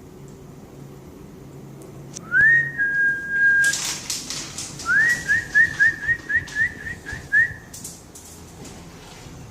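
A person whistling to call cats: one whistle that rises and is then held steady, then a rising whistle followed by a quick run of short repeated whistles, about three a second. A short, loud, noisy burst like rustling comes between the two whistles.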